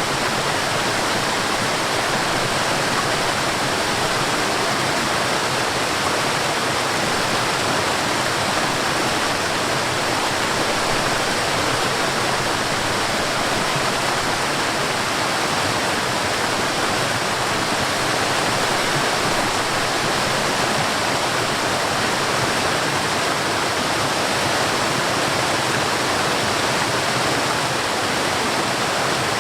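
Forest waterfall: water pouring and splashing in a steady, even rush that does not change.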